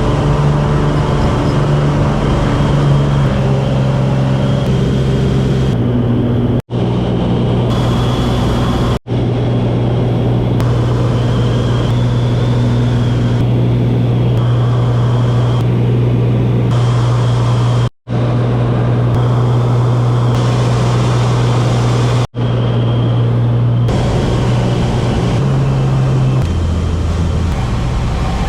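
Cessna light aircraft's engine and propeller droning steadily, its pitch stepping a little between segments, broken by a few abrupt brief dropouts.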